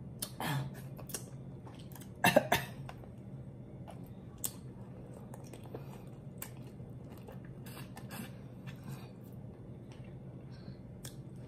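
A person chewing lobster, with scattered short wet mouth clicks and smacks and one louder burst about two seconds in, over a steady low hum.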